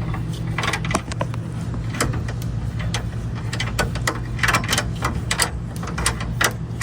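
Bolt being turned with vise-grip pliers to raise a coil spring: irregular metallic clicks and ratcheting, coming faster in the second half, over a steady low hum.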